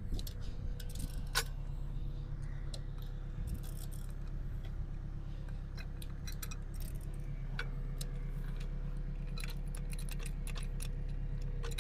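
Honda CRX's turbocharged K20 engine idling steadily while it warms up to temperature, with scattered light metallic clinks over it.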